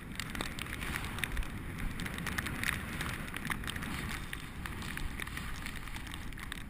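Bicycle riding in snow: tyres rolling over snowy ground with a steady crackling rattle and some wind noise.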